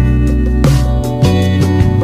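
Instrumental background music with guitar and a steady beat.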